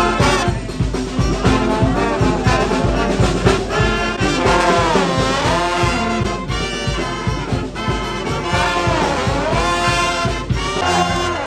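Brass-led jazz music, with trombone and trumpet playing a melody with bending notes over a steady beat.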